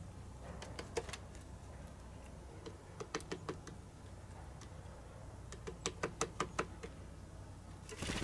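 Red-bellied woodpecker pecking at a bird feeder: sharp taps in short runs of four or five, about five a second, over a steady low hum. A louder scuffle comes near the end.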